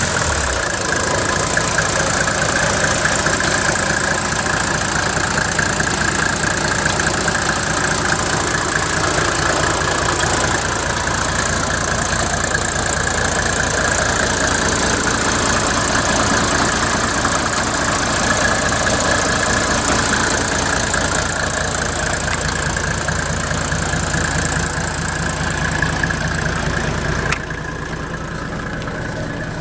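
Mercedes OM603 six-cylinder diesel engine running steadily. About 27 seconds in, the sound drops suddenly, quieter and duller.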